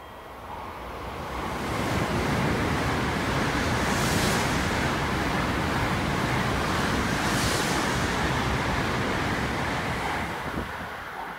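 Tokaido Shinkansen bullet train passing through a station at speed: a rushing noise of air and wheels that swells over about two seconds, holds steady, and fades near the end. Two brief higher hissing swells come about three seconds apart.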